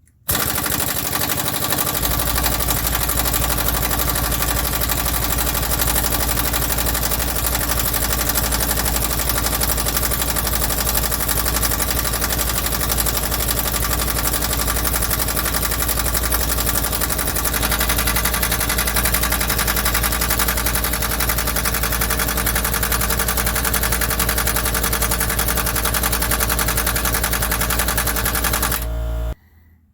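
Impact wrench hammering without pause on a seized rear strut bolt of a 2006 Subaru Legacy, a loud, rapid rattle. It cuts off near the end as the bolt finally breaks loose.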